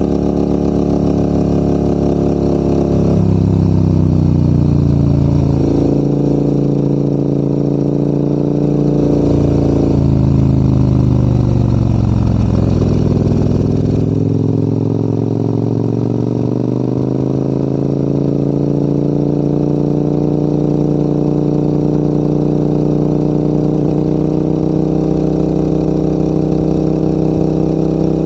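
Large adventure motorcycle engine running under load, its note dropping in steps a few seconds in and again around ten seconds in, reaching its lowest near the middle, then climbing steadily and holding.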